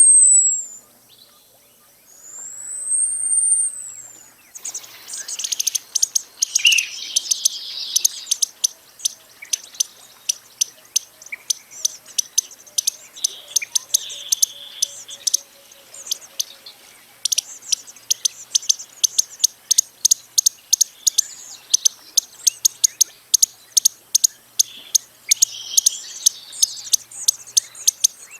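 Costa's hummingbird calling: two very high, thin whistles near the start, each rising and then falling, followed by a long run of rapid sharp ticks with a few buzzy notes mixed in.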